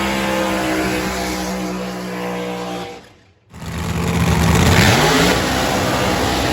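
Loud drag-car engine running at a steady pitch, cut off suddenly about three seconds in; after a half-second break the engine sound returns, revs with its pitch gliding upward, then holds steady.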